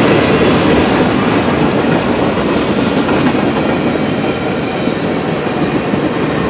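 Freight train cars rolling past on the rails, a loud, steady rumble of wheels on track.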